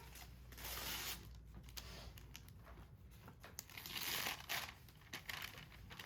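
Paper crinkling and tearing in short rustling bursts as a present is unwrapped, loudest about a second in and again about four seconds in.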